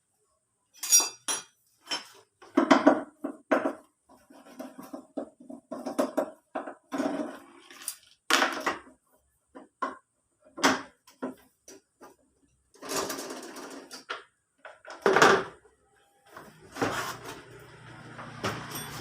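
Metal tools and engine parts clinking and clattering as they are picked up and set down, in irregular knocks with short pauses. A faint low steady hum comes in near the end.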